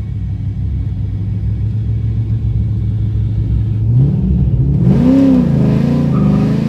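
LS V8 engine in an S10 truck, running steadily, then revving up about four seconds in, dropping back briefly and climbing again.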